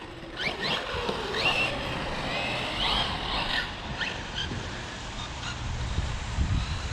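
Electric RC car driving: its motor gives several short rising whines as the throttle is blipped, over a steady rumble of tyres and wind.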